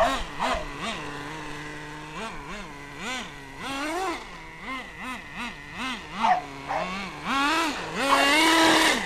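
Team Infinity .21 nitro engine in a 1/10 RC buggy, revving up and down over and over in quick bursts, then held at high revs for about a second near the end.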